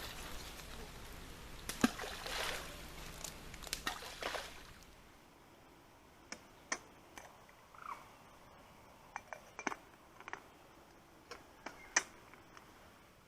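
Water splashing and sloshing in a few short surges, then a quieter stretch with scattered light clicks and taps.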